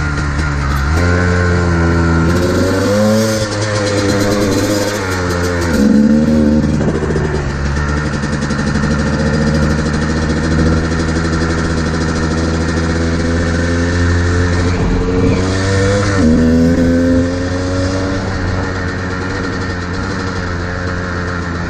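Modified Kawasaki KDX220R two-stroke dirt bike engine with an FMF exhaust, ridden fast: the engine note climbs and falls as it is revved and shifted, with the biggest swings in the first few seconds and again around fifteen seconds in.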